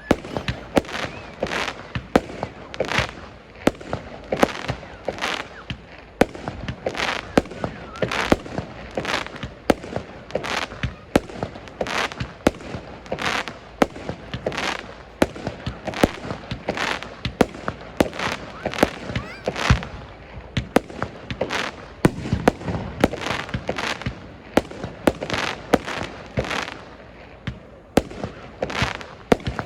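Aerial firework shells bursting in a rapid barrage, a continuous string of sharp bangs about two or more a second with smaller crackles between them, heard close to the launch site.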